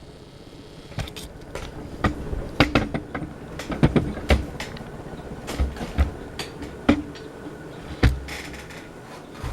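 A ceiling fan running steadily on high, with irregular knocks and clicks over it, the loudest about a third of the way in and again near the end.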